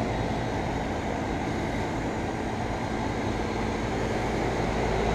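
Central air conditioner condenser running steadily: the low, even hum of its Copeland scroll compressor under the rushing air of the condenser fan.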